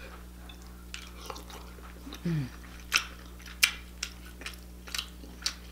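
Close-up mouth sounds of someone eating king crab meat in sauce: wet chewing with sharp lip smacks at irregular intervals, and a short falling hum of the voice about two seconds in.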